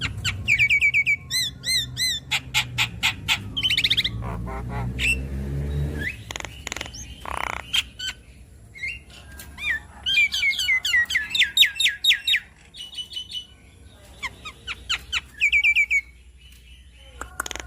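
Javan myna (jalak kebo) singing a varied run of rapid chattering trills, whistles and harsh squawks, with a short lull in the middle. A low hum sits beneath the first six seconds.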